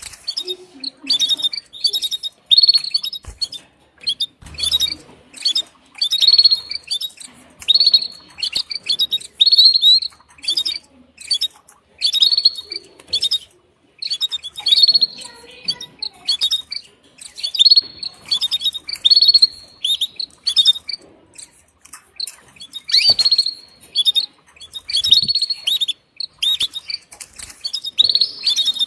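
Female canary giving its mating call: short high chirps in quick groups, repeated over and over.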